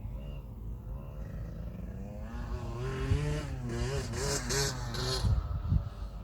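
KTM 65 SX's small two-stroke single-cylinder engine revving. Its pitch climbs steadily over the first few seconds, then rises and falls several times as the throttle is worked, loudest in the middle.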